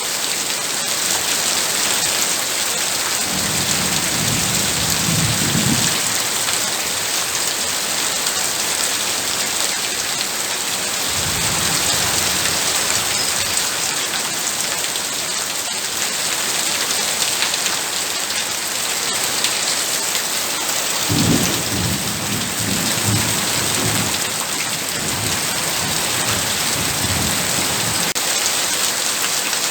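Heavy rain falling steadily, with rolling thunder rumbling low underneath three times: a few seconds in, about a third of the way through, and a longer roll in the last third.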